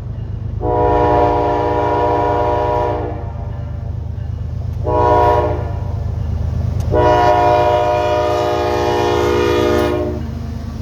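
Diesel freight locomotive air horn sounding a long blast, a short one, then another long one, its chord of several notes held steady. Under it runs a steady low rumble from the train.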